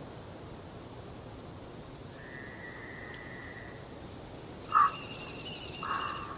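Forest birds calling in clear whistled notes. A faint, level whistle comes about two seconds in; near the end there is a loud short call, a higher fluttering note, and then a longer call, all over a steady low hiss.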